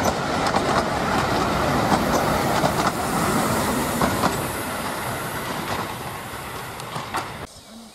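Narrow-gauge railway passenger coaches rolling past, their wheels clattering over the rail joints, the sound fading as the train draws away, then cutting off suddenly near the end.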